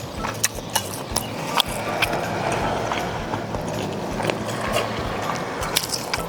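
Mukbang eating sounds: a run of irregular sharp clicks and taps from utensils and dishes, with chewing.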